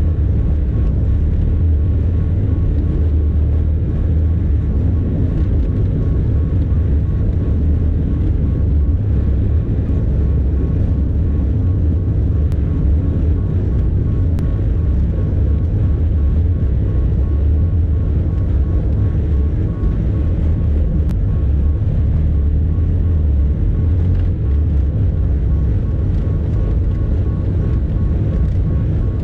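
Bobcat E50 compact excavator's diesel engine running steadily, a deep even drone with a faint steady high whine over it.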